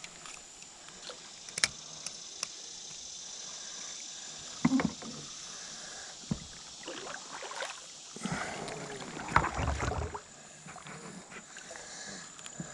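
Handling noise in a fishing kayak: a few sharp clicks, a knock on the hull about five seconds in, and a busier stretch of knocking and rustling about eight to ten seconds in, over a steady high-pitched hiss.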